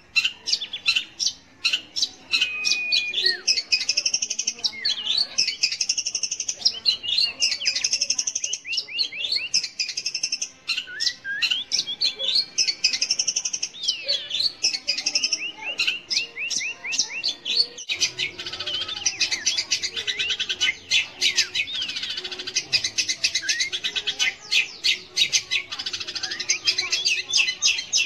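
Long-tailed shrike (cendet) singing a rapid, varied chattering song of high notes, whistles and trills. About two-thirds of the way through it switches abruptly to a denser run of fast repeated notes.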